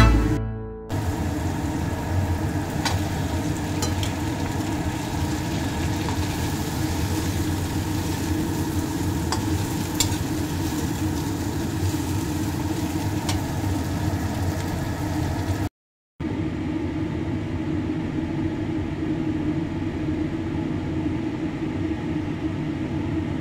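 Fried shrimp being stir-fried in a steel wok: steady sizzling with a few sharp clicks of the spatula against the pan. The sound drops out briefly about two-thirds through and returns as a duller steady hiss.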